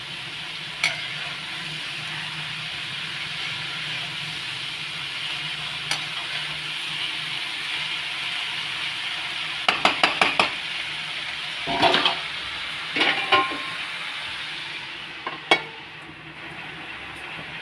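Shredded cabbage and potatoes sizzling dry in a steel kadhai, with a metal spatula stirring and clinking against the pan in several short bursts. Near the end a flat steel plate is set on the pan as a lid with a clink, and the sizzle quietens.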